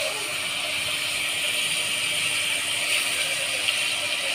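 Ginger-garlic paste frying in hot oil in an aluminium pot, a steady sizzling that holds at an even level.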